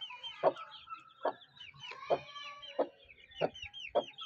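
Aseel mother hen clucking steadily, about one low cluck every two-thirds of a second, while her chicks peep continuously in short high chirps over it.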